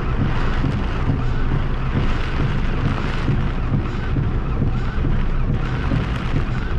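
Heavy rain on a car heard from inside, a steady low rumble with wind buffeting the microphone. Windscreen wipers sweep the wet glass with a short squeak about every two-thirds of a second.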